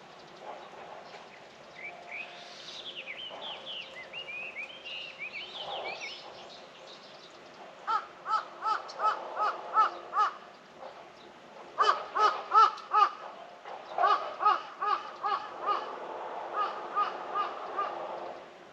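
A crow calling in quick bouts of repeated caws, several in a row at about three a second, four bouts in all. Before the first bout a smaller bird sings a brief warbling, chattering phrase.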